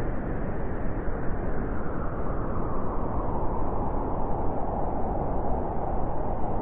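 Winter wind blowing steadily, a continuous rushing noise with no gusts or breaks.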